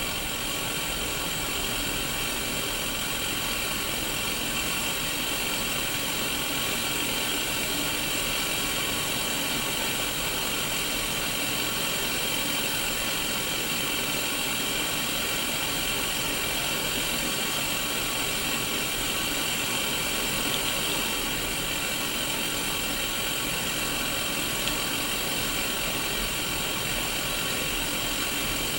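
Static hiss from a Sony Mega Watchman black-and-white mini CRT TV tuned to no station, steady and unchanging, brightest in the upper middle of the range, with a faint low hum beneath it.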